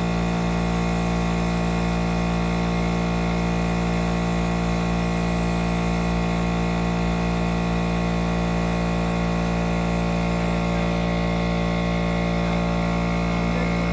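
Air compressor motor running steadily, a constant even hum that keeps up while the boat is spray-painted.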